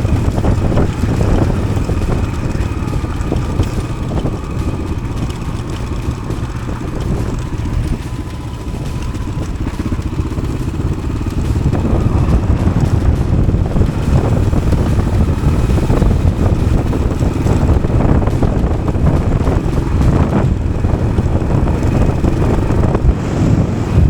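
Yamaha XT600's single-cylinder engine running under way. It eases off around the middle, then picks up again.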